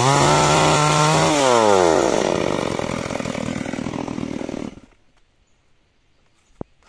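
Chainsaw engine held at full throttle, then dropping in pitch as the throttle is let off about a second and a half in. The loud running carries on and then cuts off suddenly near the end, leaving only a few faint ticks.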